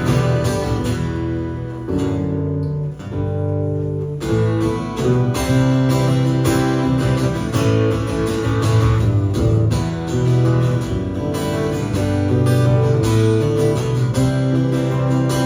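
Acoustic guitar strumming chords in an instrumental break of a live acoustic song.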